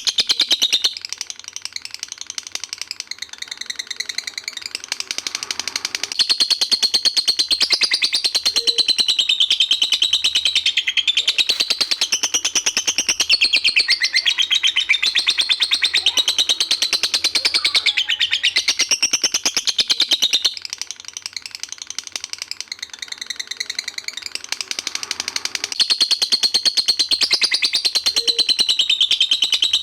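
Songbird singing a continuous, rapid chattering song of fast repeated high notes, softer for a few seconds near the start and again about two-thirds of the way through; a looped birdsong training recording.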